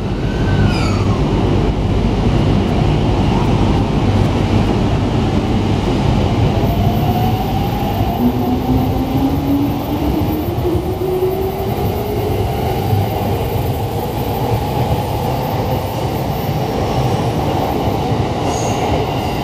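Electric commuter train pulling out of a station: a steady rumble of the cars over the rails, with a rising motor whine setting in about eight seconds in as it gathers speed.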